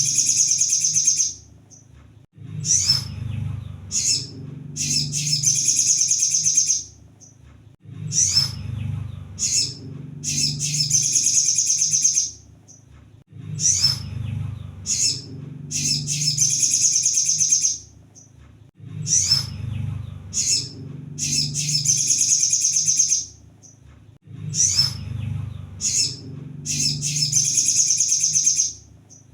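Sunbird (kolibri sogon) song played as a repeating lure: a few sharp chirps, then a fast, high trill lasting two to three seconds. The phrase comes back about every five and a half seconds, over a low steady hum.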